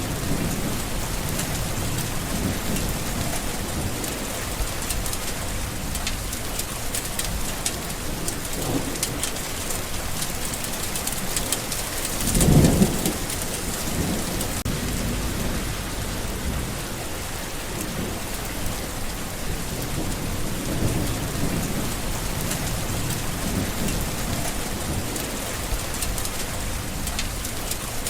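Steady heavy rain falling, with low rumbles of distant thunder swelling now and then, the loudest about halfway through.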